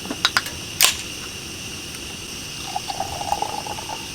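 A few sharp clicks of cooking utensils, then a short trickle of liquid being poured, over a steady high hiss.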